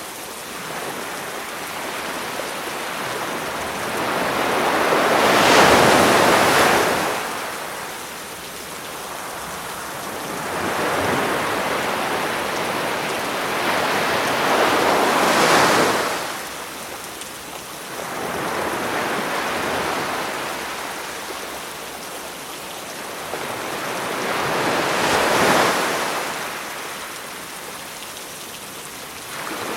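Sea waves breaking on the shore three times, about ten seconds apart, each one swelling up and washing back, over a steady hiss of rain.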